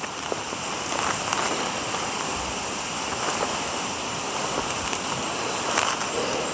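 A steady rushing noise with a few faint scattered clicks.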